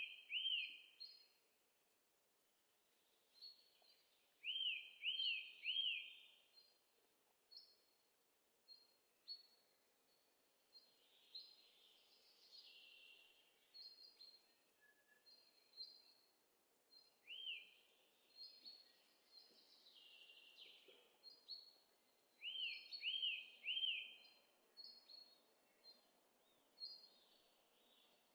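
Birds singing faintly outdoors: a phrase of three quick rising-and-falling notes comes back every few seconds among short, higher chirps, over a faint low background hum.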